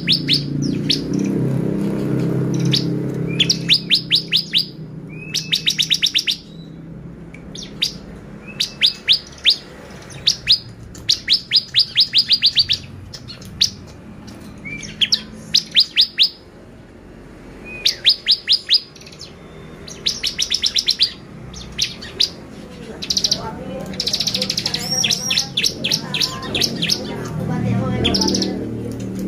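Lively ('gacor') bar-winged prinia (ciblek) singing: short, fast trains of sharp, high repeated notes, one train every second or two.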